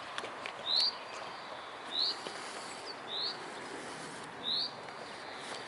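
A bird repeating a short, high, rising call, four times about a second and a quarter apart, over a steady background hiss.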